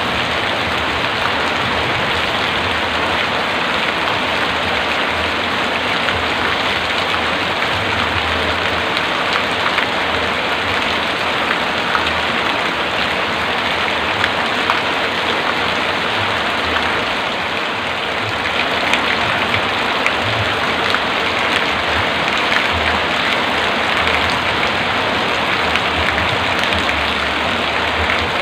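Heavy rain falling steadily, a dense patter of drops on hard surfaces with a low rumble under it.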